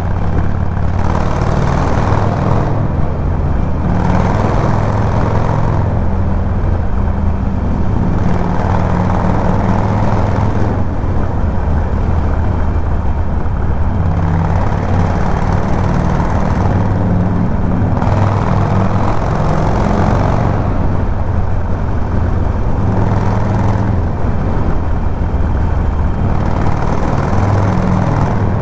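Harley-Davidson Sportster 1200 Forty-Eight's air-cooled V-twin running steadily under load while the bike cruises on the motorway, its low engine note holding an even pitch. A rushing noise swells and fades over it every few seconds.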